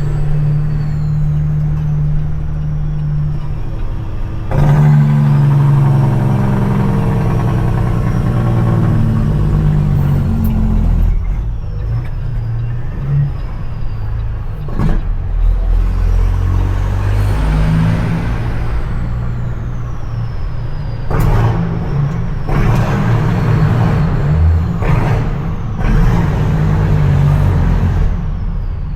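CAT C-15 diesel engine of a dump truck pulling through the gears, its pitch changing with each shift, with a turbo whistle that falls in pitch and several short sharp sounds between pulls.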